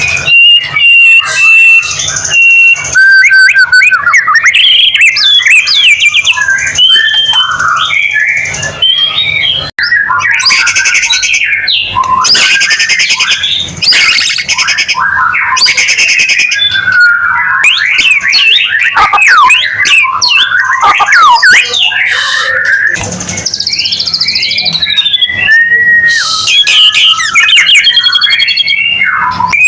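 White-rumped shama singing loudly and without pause: fast, varied whistled phrases with quick up-and-down slurs and trills, broken several times by harsh buzzing rattles.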